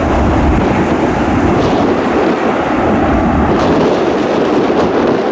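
Airbus A321's twin jet engines at takeoff thrust: a loud, steady roar with deep rumble, with gusty wind buffeting the microphone.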